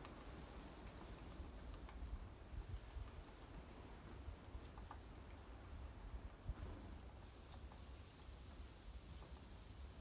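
Thin, high chirps from small birds: about eight short notes scattered irregularly, a couple in quick pairs, over a faint low rumble.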